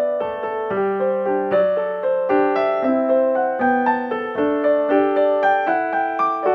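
Background piano music: a gentle melody of single notes over held chords, a new note every half second or so.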